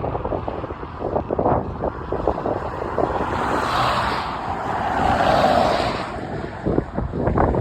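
Strong wind buffeting the microphone in gusts, with a rushing sound that swells and fades about halfway through.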